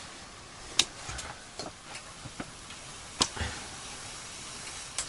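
A few sharp clicks and knocks, the two loudest about a second in and about three seconds in, with fainter ticks between them.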